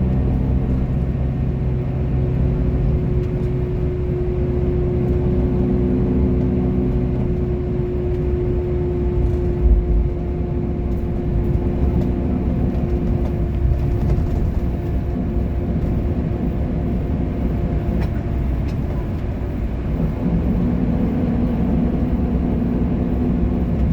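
Bus engine running over a steady low rumble of road noise. Its engine note fades after several seconds and comes back near the end, with a brief thump about ten seconds in.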